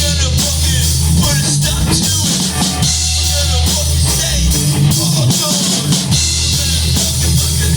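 A rock band playing loudly: drum kit, guitar and bass.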